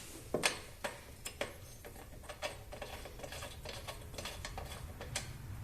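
Ratchet wrench clicking as a new spark plug is turned into the mower engine: a few sharp clicks, then a run of light ticks about four a second.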